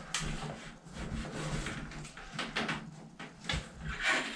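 Plastic shower-head cradle bracket being handled and positioned against a plastic shower wall: a series of light, irregular knocks, clicks and scrapes.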